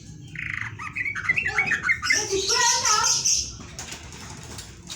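A pet trucuk bulbul gives a burst of harsh, chattering squawks and chirps lasting about three seconds.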